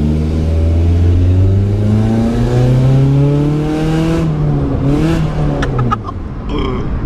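Car with a loud exhaust accelerating hard. The revs climb for about three seconds, drop at a gear change about four seconds in, climb briefly again, then fall away near the six-second mark.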